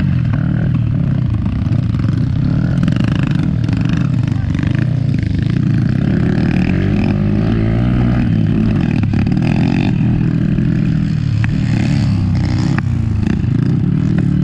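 Motorcycle engines running on a motocross flat track, their pitch wavering up and down as they rev.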